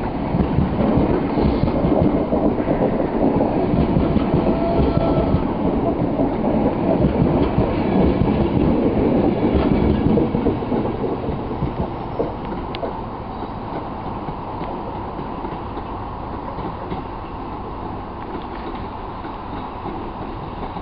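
Mark 3 passenger coaches rolling past along the platform, their wheels running on the rails. The noise drops about halfway through to a quieter steady background.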